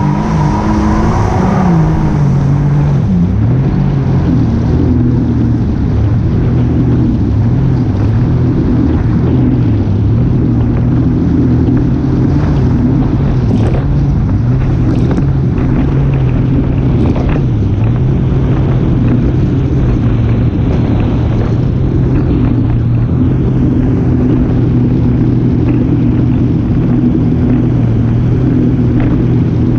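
An engine running steadily at a near-constant speed, its pitch dipping briefly about three seconds in and again just past halfway.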